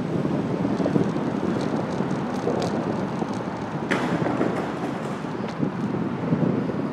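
Wind buffeting the microphone of a handlebar-mounted phone on a moving bicycle: a steady rough rumble, with a few small clicks, the sharpest about four seconds in.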